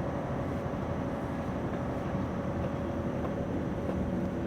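Scania V8 truck engine running steadily, heard from inside the cab, with a constant low rumble.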